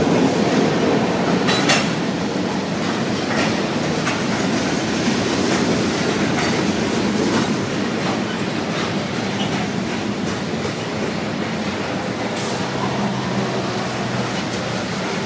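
Freight train cars (covered hoppers and tank cars) rolling past at close range: a steady rumble of wheels on rail with a few sharp clacks scattered through.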